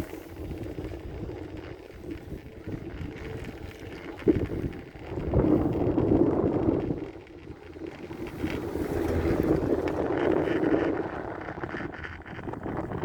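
Ride on a four-seat chairlift: the lift's running rumble mixed with wind on the microphone, with a sharp knock about four seconds in and two long swells of noise after it.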